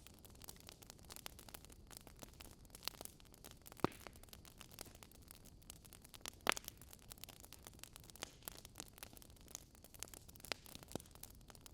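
Wood fire crackling: a steady soft hiss with irregular small pops, and two louder snaps about four and six and a half seconds in.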